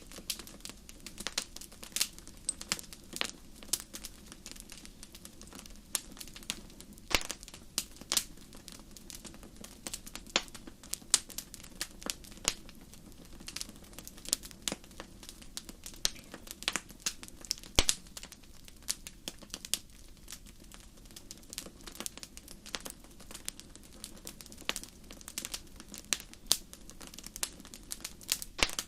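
Wood fire in a fireplace crackling: irregular sharp pops and snaps several times a second over a steady low hiss of burning.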